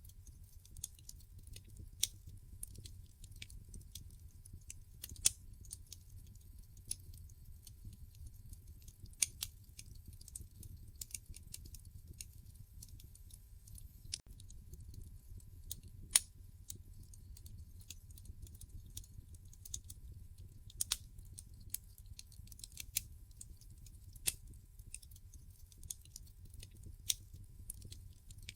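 Wood fire burning in a fireplace, crackling: irregular sharp pops and snaps, several of them louder, over a low steady rumble.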